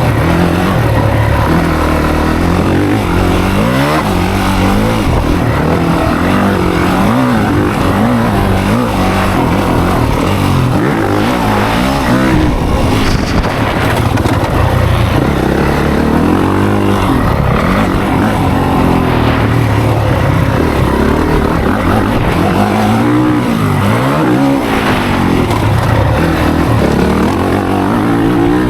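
Dirt bike engines revving on a motocross track, the pitch rising and falling over and over with throttle and gear changes.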